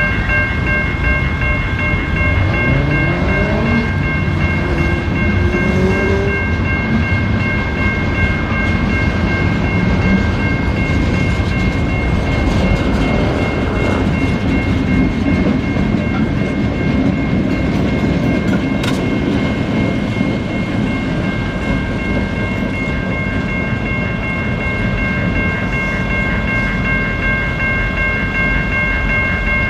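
CN freight train rolling backwards over a level crossing, its wagons giving a steady rumble and clatter of wheels on rail. A steady high ringing from the crossing signal runs over it, with a brief rising squeal a few seconds in.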